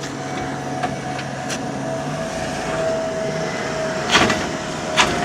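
Truck engine running steadily, with a few sharp knocks and clicks; the two loudest come about four and five seconds in.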